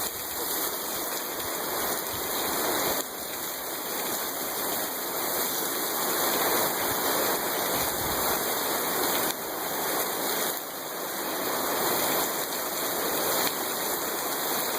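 Rain falling steadily, a dense even hiss with small rises and falls in level.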